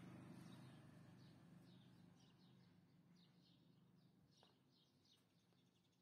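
Near silence: faint room tone with faint, repeated high chirps of birds in the background.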